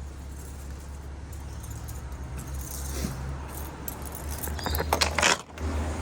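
Vehicle engine idling with a steady low hum, and a burst of loud metallic clinking and jingling about five seconds in, as from tow gear being handled.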